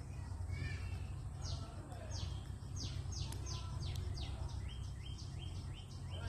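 A bird calling a fast series of short downward-sweeping notes, high at first, then a run of lower, shorter notes about three a second, over a steady low rumble.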